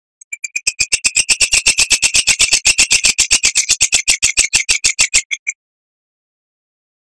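Oriental magpie-robin (kacer) singing a rapid, loud run of sharp repeated notes, about nine a second, lasting some five seconds before stopping abruptly.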